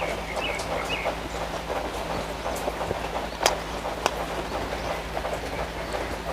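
Close-miked eating sounds: continuous chewing and wet mouth clicks, with one sharper click about three and a half seconds in.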